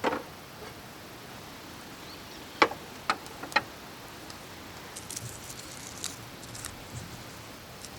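A few sharp clicks and knocks over a faint steady background: one at the start, three more close together a little after halfway, then a run of fainter, higher-pitched ticks.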